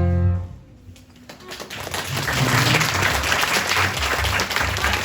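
A bayan orchestra's final held chord cuts off about half a second in; after a brief hush, audience applause starts and carries on.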